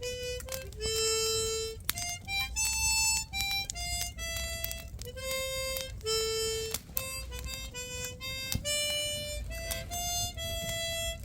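A harmonica playing a melody, one held note after another, each note changing pitch every half second or so.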